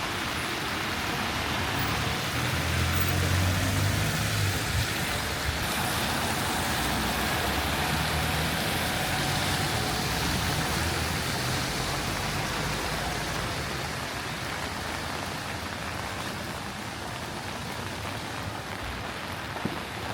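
Steady rain hiss on a city street with motor traffic passing on the wet road, the low rumble of vehicles swelling a couple of seconds in and again around the middle, then easing off in the later part.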